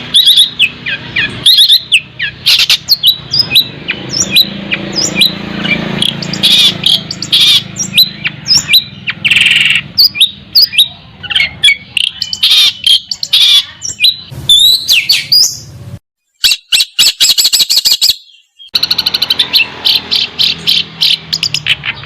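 Songbird singing a loud, fast, varied song of sharp chirps and whistled sweeps. Near the end it breaks off abruptly twice, with a rapid rattling trill between the breaks.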